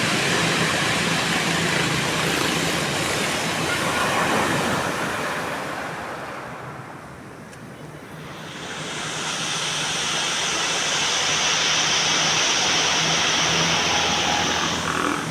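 Ocean surf washing on a beach: one wash of surf fades to a lull about seven seconds in, then the next wave surges in with a bright hiss that holds until near the end.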